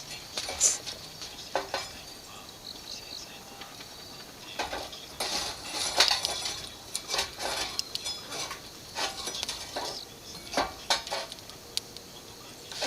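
Cooking utensils and cookware clinking and knocking together in a series of irregular light taps, busiest in the middle of the stretch.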